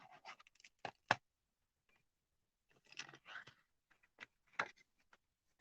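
Rubber stamping by hand: a few sharp taps and clacks of a stamp on its acrylic block against an ink pad and the card, with rustling of paper between them.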